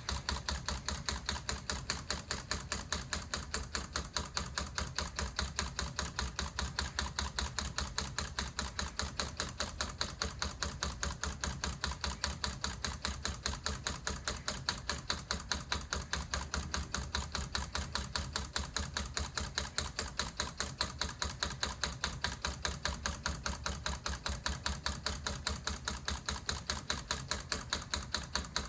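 Homemade solenoid engine running at a steady speed: four solenoids snapping steel pins back and forth in a plastic tube to drive a connecting rod and flywheel. It makes an even, rapid clacking, several clacks a second.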